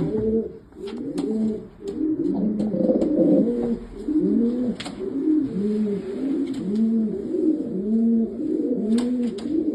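Racing pigeons cooing in the loft: overlapping, repeated rising-and-falling coos from several birds, with a few sharp clicks mixed in.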